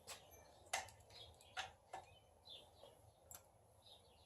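A few scattered, irregular light clicks of hand tools and bolts being handled while fitting engine accessories, with birds chirping faintly in the background.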